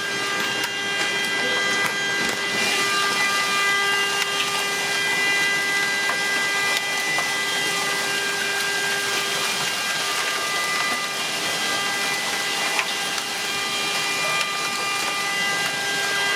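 Car horn stuck on, sounding one unbroken steady tone, over a steady hiss of storm rain and wind.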